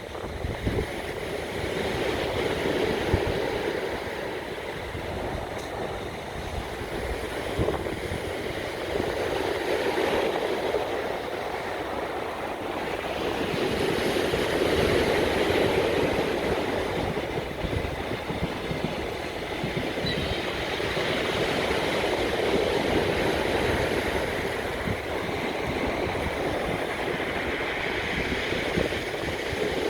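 Passenger train hauled by an EP20 electric locomotive running past: a steady rumble of wheels on rails that swells and eases as the coaches go by, with wind buffeting the microphone.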